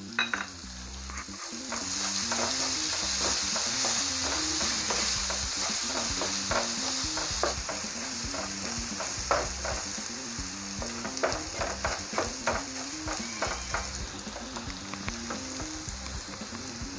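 Chopped garlic and scraped bitter-gourd peel frying in hot mustard oil in a pan, sizzling steadily, while a wooden spatula stirs and scrapes through them in short irregular strokes. The sizzle grows louder once the stirring starts, a second or two in.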